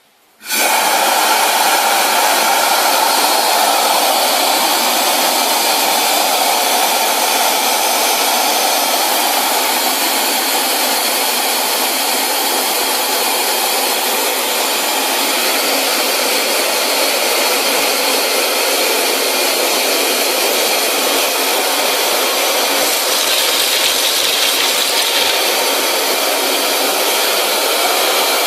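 Compressed-air-driven wet/dry industrial vacuum cleaner switching on about half a second in, then running with a steady, loud rushing hiss. Around 23 to 25 seconds in the sound briefly grows brighter.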